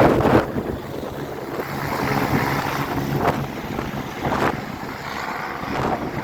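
Agusta A109 Power twin-turbine helicopter's engines and rotor running steadily as it takes off, with wind buffeting the microphone.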